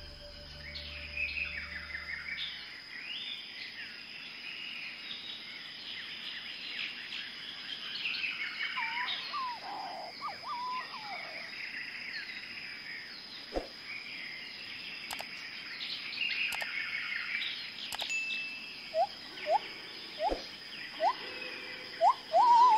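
Birds chirping and calling, many short overlapping calls, over a thin steady high tone. There are a few sharp clicks in the second half, and near the end a run of short rising squeaks about once a second.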